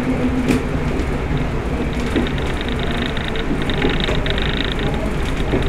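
Class 122 diesel railcar running along the line: a steady rumble of engine and wheels on rail with scattered clicks, and a thin high whine joining about two seconds in.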